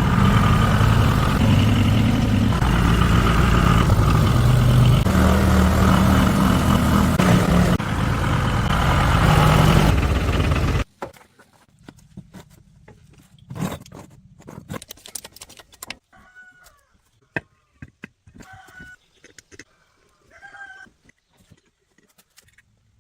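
Tractor engine running steadily, then stopping abruptly about eleven seconds in. Afterwards come faint clicks and a few short chicken clucks.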